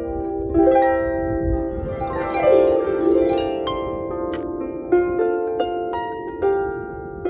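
A harp being played: plucked notes ringing on over one another, with a quick run down the strings about two to three seconds in.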